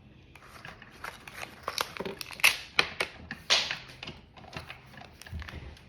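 Small plastic packaging crinkling and rustling as it is handled and torn open by hand, with a run of irregular sharp clicks and crackles, loudest in the middle.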